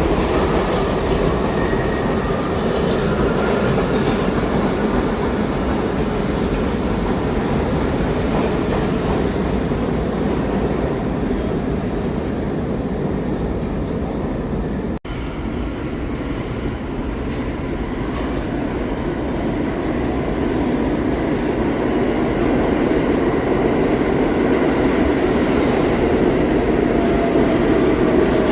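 New York City subway train of older SMEE-type cars running on the rails: a steady loud rumble with faint wheel squeal rising and falling over it. The sound drops out abruptly for an instant about halfway through.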